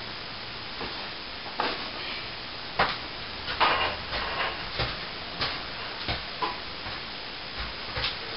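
Plastering tools at work on wet plaster: short, irregular scrapes and clicks, a dozen or so, over a steady hiss.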